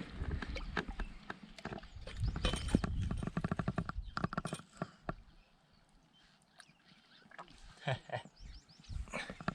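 A run of quick, uneven knocks and taps, thickest over the first few seconds, then dying down with a few more near the end: hard handling sounds in a boat while the landed sturgeon is held for a photo.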